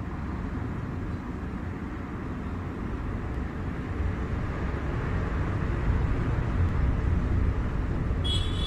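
Heavy ocean surf rumbling against the shore, mixed with wind on the microphone, slowly building in strength. A brief high-pitched tone sounds near the end.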